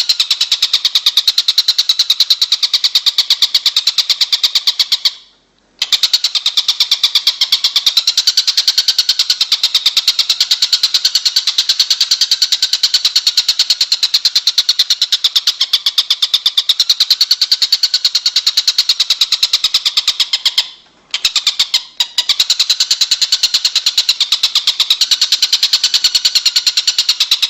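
A recorded songbird training track: a fast, even, high-pitched trill that runs on without pause, broken by two brief dropouts about five and twenty-one seconds in.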